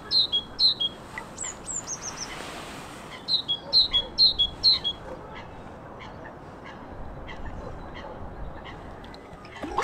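A small songbird singing a repeated two-note phrase, high then slightly lower, about three phrases a second. It comes in two short bouts, with a brief descending call between them.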